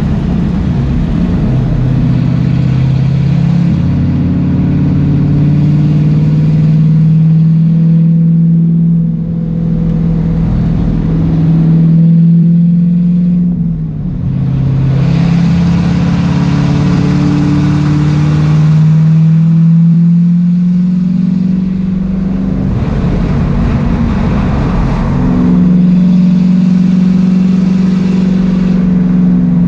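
Race car's engine heard from inside its stripped, caged cabin, pulling hard down the straights and easing off with a drop in pitch a few times, about a third of the way in, near the middle and again past two-thirds, before pulling again.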